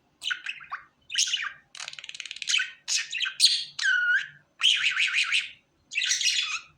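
Pet budgerigar chattering and warbling in a fast string of short bursts, with a clear whistled note that swoops down and back up about four seconds in.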